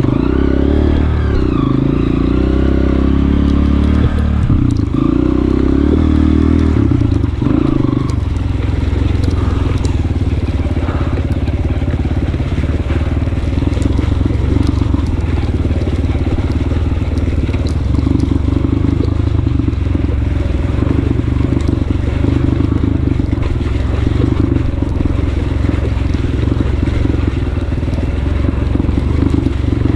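Honda CRF230F dirt bike's single-cylinder four-stroke engine running under load. It rises and falls in pitch over the first eight seconds, then holds a steadier pitch.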